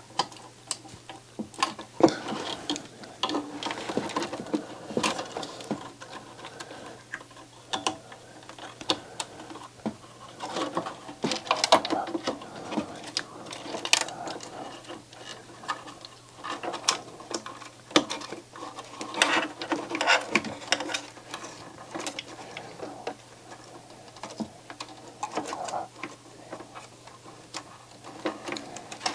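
Irregular clicks, taps and light knocks of small plastic and metal parts being handled inside an opened CD player as cable connectors are fitted, over a faint steady low hum.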